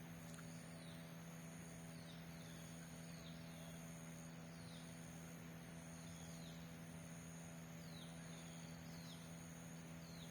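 Faint outdoor ambience: a steady high insect drone with short, downward-sliding bird chirps repeating about once a second, over a low steady hum.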